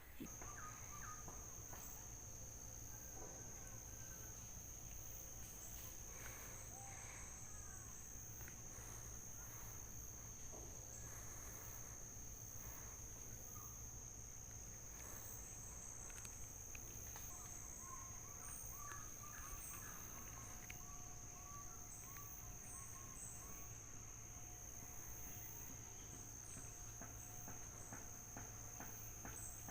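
Insects keep up a steady, high-pitched buzz, with a run of short chirping notes about two-thirds of the way through.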